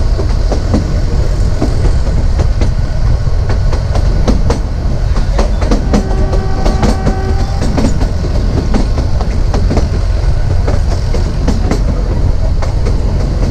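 Narrow gauge passenger train running along the track: a steady rumble with wheels clicking over the rail joints. A brief steady tone sounds about halfway through.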